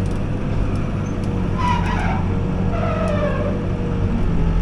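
Backhoe's diesel engine running steadily, with two brief squeals that slide down in pitch around the middle.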